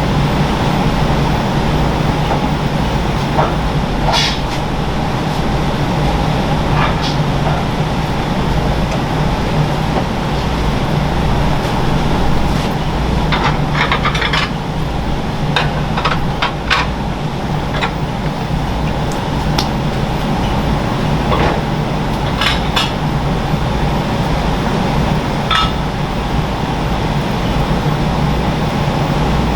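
Steady low mechanical hum of kitchen equipment, with scattered light clinks and knocks of dishes and utensils, clustered about halfway through and again later.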